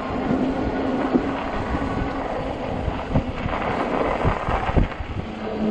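Fat-tire e-bike rolling over bumpy packed snow and ice with wind on the microphone, its faint steady motor hum fading about halfway through. A few sharp knocks in the second half as the bike jolts over bumps.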